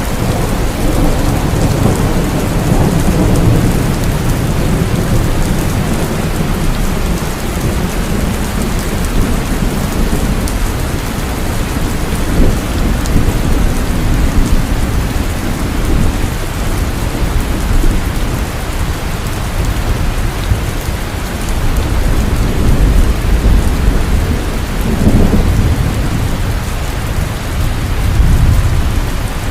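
Heavy rain falling steadily, a dense continuous hiss, with low thunder rumbling that swells and fades several times underneath.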